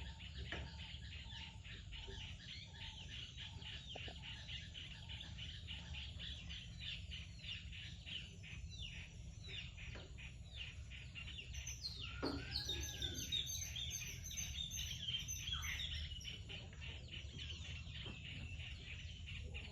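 Small birds chirping in a dense, continuous chorus of quick down-sweeping chirps, busier about two-thirds of the way through, with one longer rising-and-falling call, over a steady low rumble.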